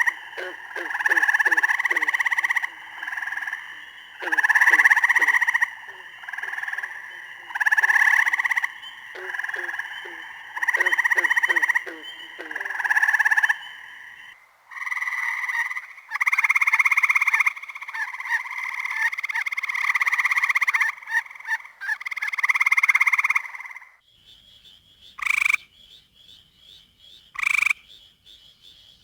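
Frogs calling in a chorus: pulsed trills a second or two long repeat one after another, with a lower, quicker pulsing call beneath them for the first half. About 24 seconds in, the sound changes to a quieter background with short single calls about every two seconds.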